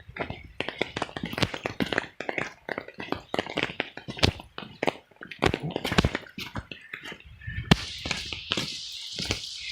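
Raindrops tapping irregularly and densely close to the microphone, several a second. A steady rain hiss comes in about two thirds of the way through.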